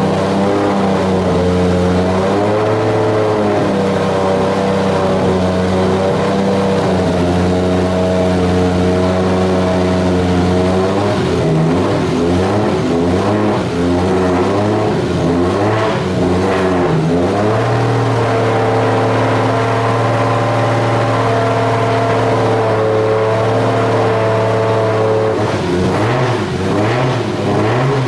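Freshly rebuilt Nissan RB straight-six running on its first start-up, warming up at a high idle. The revs rise and fall for several seconds in the middle and again near the end, settling to a steady pitch in between.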